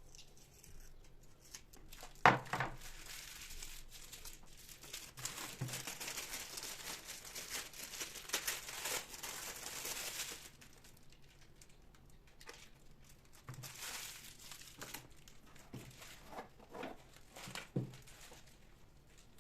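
Packaging being crinkled and torn open by hand, with a dense rustling stretch in the middle and a shorter burst later. A sharp knock about two seconds in is the loudest sound, and a few light knocks come near the end.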